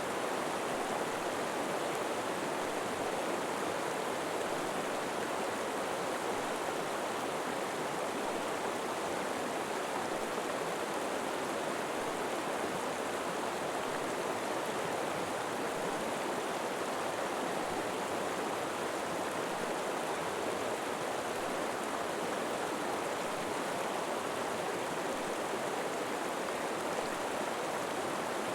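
River water flowing over rocks in a steady, even rush with no change throughout.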